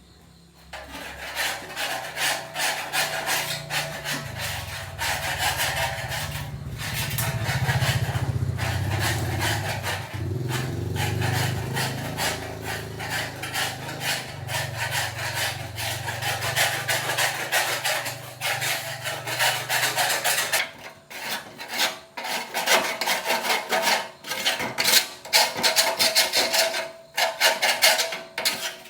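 Rapid rasping, scraping strokes of hand work on the cutter frame, like filing or sanding. A low steady hum runs under them until about two-thirds of the way through, then stops.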